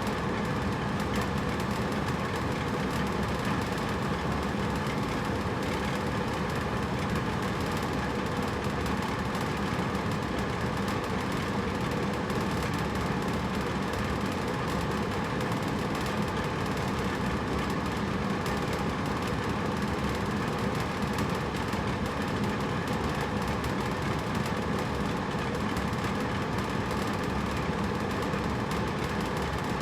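Hotel room air conditioner running steadily: an even rushing of air with a low hum, unchanging throughout.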